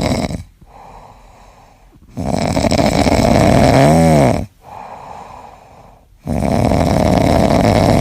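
A sleeping pet snoring: two long, loud snores about four seconds apart, with quieter breaths between them. Near the end of the first snore a pitched tone rises and falls.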